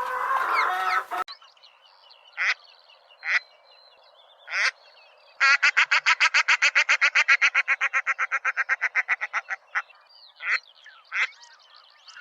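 Domestic waterfowl, ducks or geese, calling. After about a second of hens clucking, there are a few single calls, then a long rapid run of even calls at about nine a second for some four seconds, then a few more single calls.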